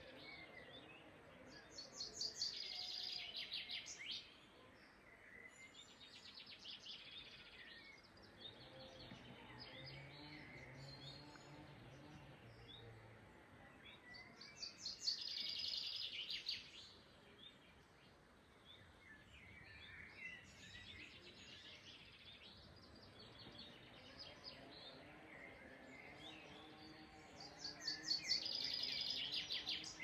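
Songbirds singing outdoors: three bursts of rapid, high trilling song, each lasting two to three seconds and coming about every twelve seconds, with fainter chirps in between.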